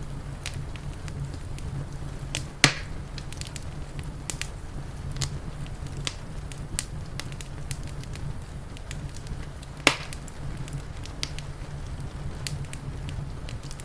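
Wood fire crackling, with scattered sharp snaps and two louder pops, one about three seconds in and one near ten seconds, over a steady low rumble.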